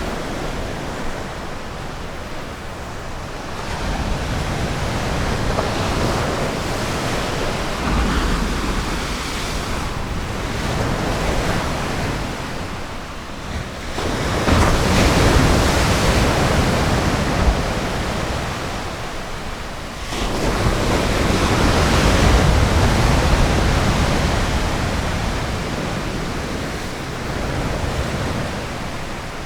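Ocean waves breaking on a sandy beach: surf hissing and rushing, swelling with each set of waves and falling back between them, with some wind on the microphone.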